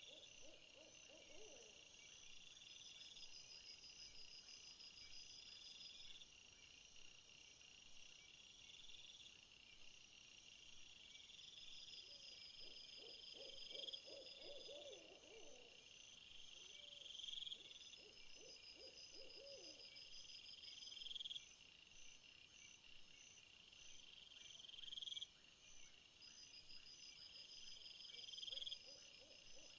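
Faint nature ambience: insects calling in high phrases that swell and cut off about every three to four seconds, with low warbling animal calls a few times.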